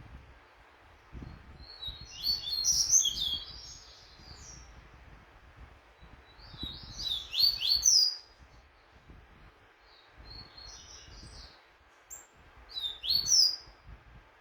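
Double-collared seedeater (coleiro) singing: three loud phrases of quick, high, sweeping notes a few seconds apart, with a fainter phrase between the second and third.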